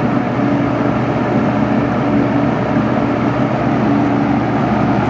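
JCPenney 9700 box fan, a Lakewood P223-type fan with a McMillan motor, running steadily on medium speed: a continuous rush of moving air over a steady motor hum.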